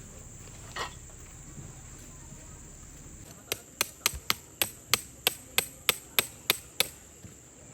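Hammering: about a dozen quick, sharp, evenly spaced strikes, three or four a second, starting a few seconds in and stopping near the end. A steady high insect drone runs underneath.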